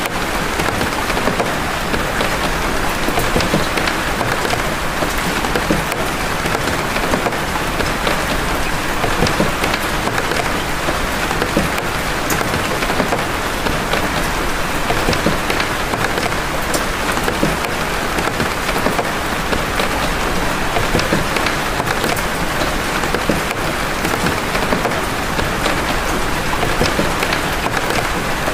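Steady rain of big drops: a dense, even hiss with many separate drop hits ticking through it.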